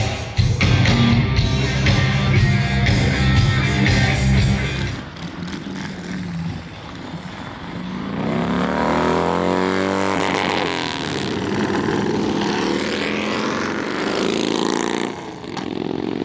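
Music with a heavy low end, which gives way after about five seconds to a motorcycle engine revving, its pitch rising and falling.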